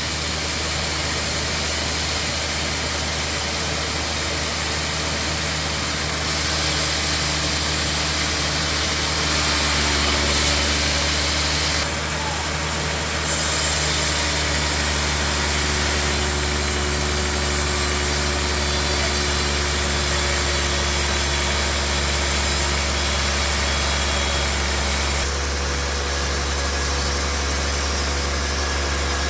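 Sawmill bandsaw machinery running steadily with a deep hum. Its higher hiss changes several times, getting louder around 6 s and 13 s in and dropping back near the end.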